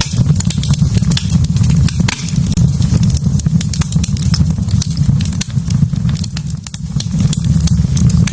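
Wood fire burning in a fireplace: a steady low rumble of flames with many sharp crackles and pops from the burning logs.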